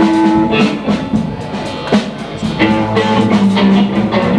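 Blues band playing live: guitar over a drum kit with regular beats. A low sustained bass note joins about two and a half seconds in.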